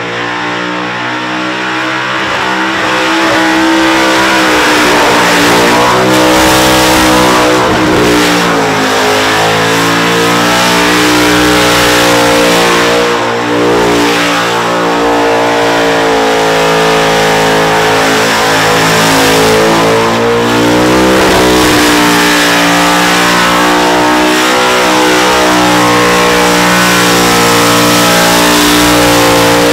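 Supercharged, carburettor-fed small-block Chevrolet V8 held at high revs through a burnout, deafening, with the revs dipping and coming back up briefly a few times.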